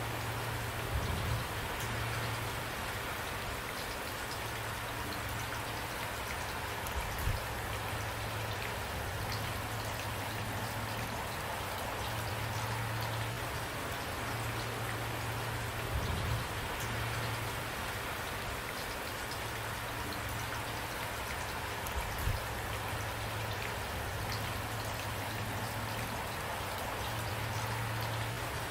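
Steady rain falling, with a low rumble that comes and goes underneath and a few brief low thumps, about four.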